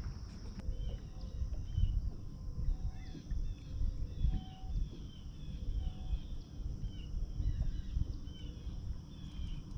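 Birds chirping in the background, short high calls repeated two or three times a second, over a louder low rumbling noise that rises and falls.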